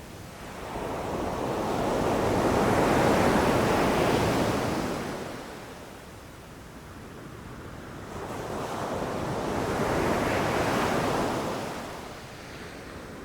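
Ocean waves rushing in and breaking on the shore, two swells of surf noise that each build and fade over several seconds.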